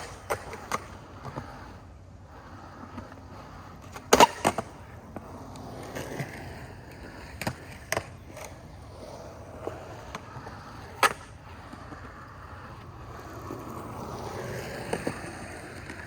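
Skateboard rolling on concrete, its wheels giving a low rumble, with sharp clacks of the wooden deck and tail hitting the ground from pops and landings; the loudest clacks come about four seconds in and about eleven seconds in.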